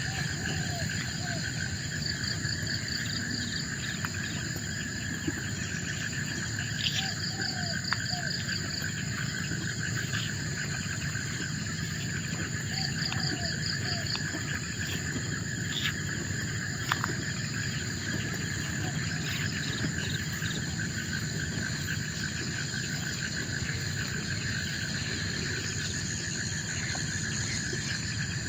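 Forest insect chorus: steady, high-pitched droning and pulsing trills from many insects, with a few short groups of chirping calls about three, seven and thirteen seconds in.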